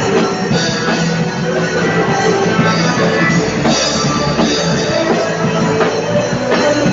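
A drum kit played along to a full-band recording of a rock-style worship song with guitars, with steady beats and cymbal hits throughout.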